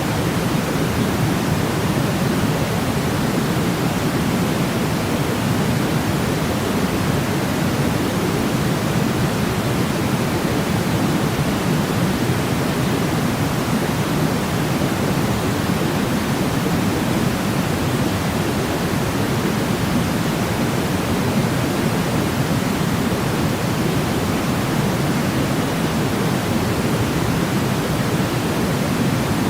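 Steady white noise of the kind played for baby sleep: an even, unchanging rush, fuller in the low range than a bright hiss.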